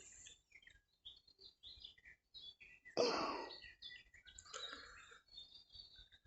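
Faint chirps and calls of small songbirds, scattered short high notes throughout, with one louder, brief rush of noise about three seconds in.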